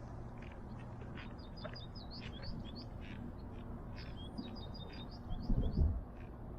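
Small birds chirping over and over in short, high chirps, over a steady low rumble. A louder, low rush comes about five and a half seconds in.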